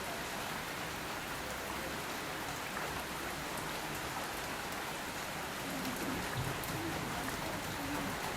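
Steady rain falling on surfaces around a backyard, with individual drops ticking through the even hiss.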